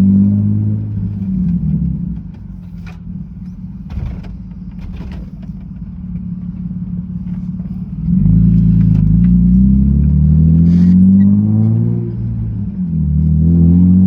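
BMW E36 engine pulling hard under load, its pitch climbing and then dropping at each gear change. In the middle it runs quieter at lower revs, with a few knocks, before accelerating hard again about eight seconds in.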